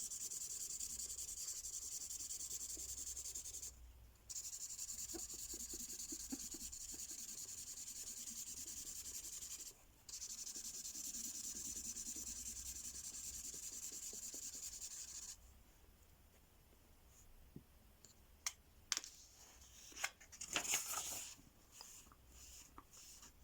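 Mystery-ink marker pen colouring on paper: a steady scratchy rubbing of the felt tip in continuous strokes, broken by two short pauses where the pen is lifted. It stops about two-thirds of the way through, followed by a few light clicks and brief scratches.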